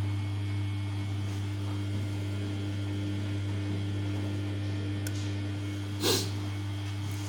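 Samsung P1271 front-loading washing machine giving a steady electrical hum, as from its pump or water valve, with one short click about six seconds in.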